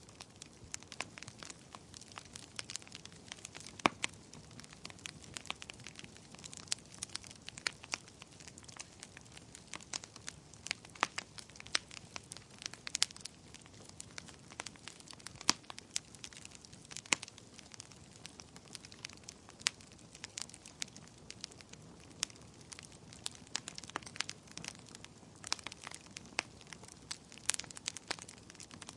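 Wood bonfire burning, with frequent, irregular sharp crackles and pops over a soft, steady hiss of flame.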